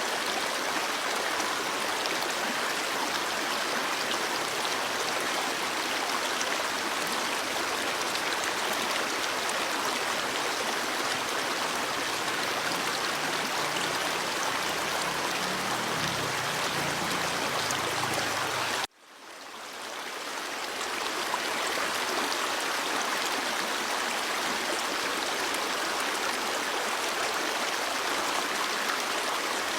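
Stream water flowing steadily, an even rushing and babbling of running water. About two-thirds of the way through it cuts out suddenly and fades back in over a couple of seconds, like an edit join in the recording.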